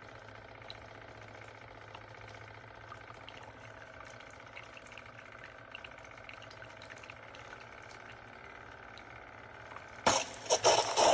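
Keurig K-Iced single-serve coffee maker running: a steady low hum with faint liquid sounds and light ticks, then a sudden loud, hissing burst about ten seconds in.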